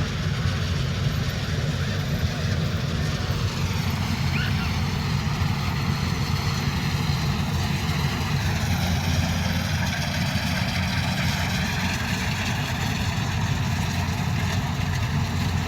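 Combine harvester's diesel engine running steadily under a steady mechanical drone, its higher whine shifting slightly in pitch about four seconds in and again around nine seconds.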